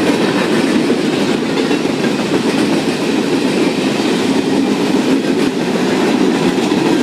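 Railroad cars rolling past on the rails: a steady, loud, continuous rumble with faint wheel clicks over the rail joints.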